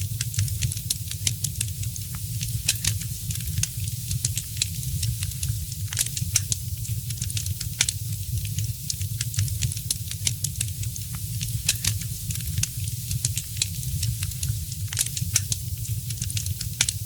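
Wood fire crackling: frequent, irregular sharp pops and snaps over a steady low rumble and a soft hiss.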